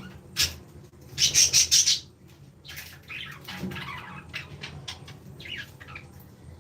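Aviary birds flapping their wings in a short loud flurry, with a few short falling chirps later on.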